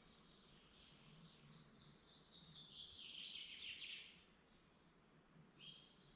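Faint woodland birdsong: a songbird sings a run of quick descending notes that speeds into a dense trill and stops about four seconds in, followed by a few short calls from other birds.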